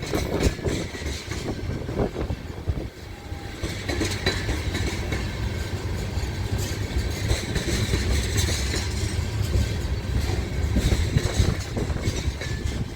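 Freight train rolling past close by: a steady low rumble with the rapid clatter of wheels over the rails.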